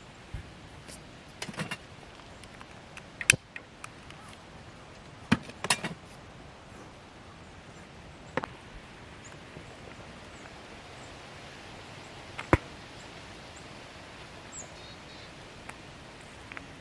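A handful of sharp, short knocks and clicks, several seconds apart, the loudest about three, five and twelve seconds in, over a faint steady outdoor background.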